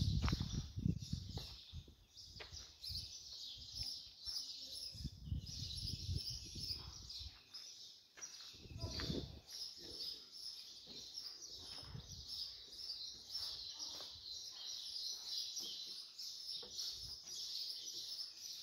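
Small birds chirping continuously, many overlapping high chirps, with a few low rumbles now and then.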